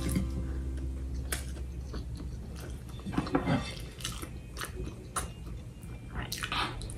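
A person chewing a mouthful of sesame pork with green beans close to the microphone, with small crunches and wet mouth clicks, and a short hum about three seconds in.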